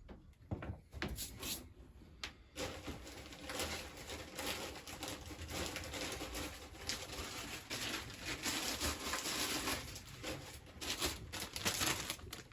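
A plastic carrier bag rustling and crinkling as parts are handled into it, after a few light clicks in the first couple of seconds.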